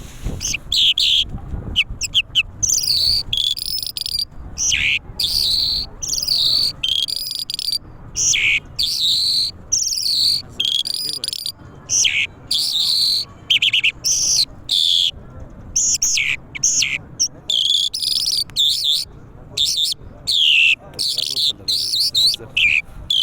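A lark singing a long, continuous song of rapid, varied high chirps, trills and sliding whistles, with only brief pauses.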